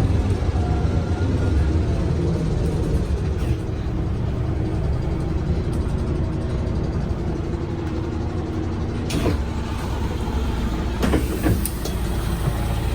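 MAN Lion's City G articulated city bus under way, a steady low rumble of engine and road, with a few short knocks in the last few seconds.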